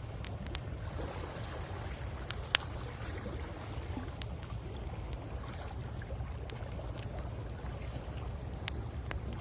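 Wood campfire crackling with scattered sharp pops, one loud snap about two and a half seconds in, over a steady low rumble of sea waves on the shore.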